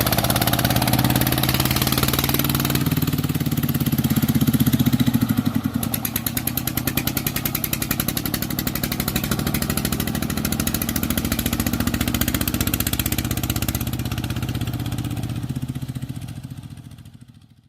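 A truck engine running with a rapid, even chugging beat, its speed shifting a few times, then fading out near the end.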